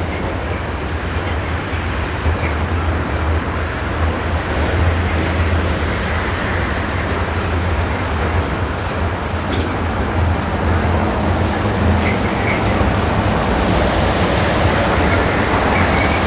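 Freight train of covered hopper wagons rolling past close by: a steady, loud low rumble of steel wheels on rail, with occasional light clicks.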